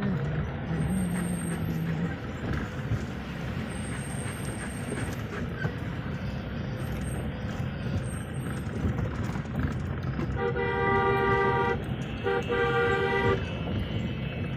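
Steady road traffic noise, with a vehicle horn giving two long blasts about ten seconds in, the second following a short gap after the first.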